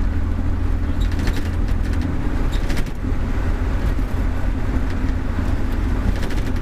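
Steady rumble of a 1953 Chevrolet 3100 pickup under way on an S10 chassis, its 4.3 V6 engine and road noise heard from inside the cab, with faint light rattles.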